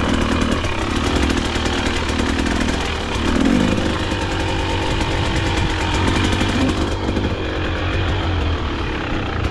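KTM dirt bike engine running, its pitch and level shifting a little as the throttle varies.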